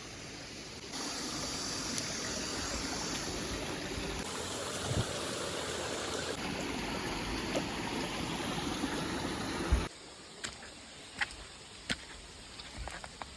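Steady rushing of water, which cuts off suddenly near the end, leaving a quieter background with a few scattered sharp taps.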